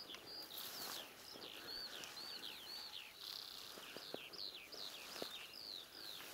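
A songbird singing an unbroken run of short, quick chirping notes, several a second, with faint rustling of footsteps through dry grass.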